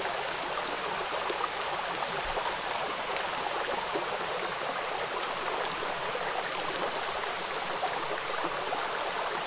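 Steady rain falling onto a wet, puddled hard surface. It is a dense, even hiss with many small drop ticks and splashes.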